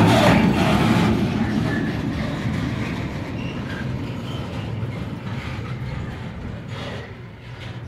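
Freight train rolling past, its wagon wheels clattering over the rail joints, fading steadily as it moves away, with a few faint short wheel squeals.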